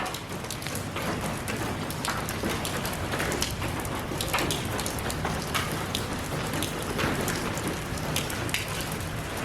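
Steady rain falling, with many individual drops pattering on a hard surface close by.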